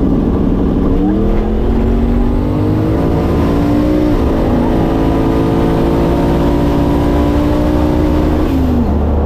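Turbocharged LS V8 drag car making a full-throttle pass, heard from inside the car. The engine's pitch climbs, drops once at a gear shift about four seconds in, runs high again, and falls away near the end.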